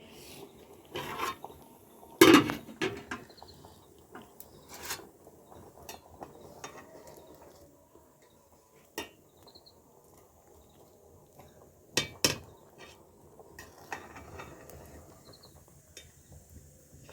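Dishes, pots and utensils knocking and clinking as they are handled, in scattered irregular clatters; the loudest come about two seconds in and a pair near twelve seconds.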